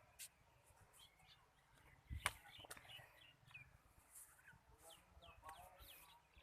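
Faint bird chirps, scattered short falling calls, with a sharp click a little over two seconds in.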